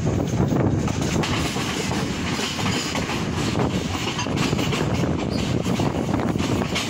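Passenger train running along the line, heard from its open doorway: the wheels on the rails make a steady rumbling noise with faint irregular clicks.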